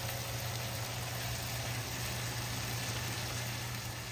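Chicken thighs frying in a wok in soy-butter sauce with onion and garlic, a steady sizzling hiss over a steady low hum.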